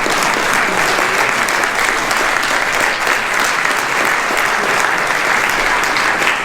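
Steady applause, a dense even clatter of many hands clapping.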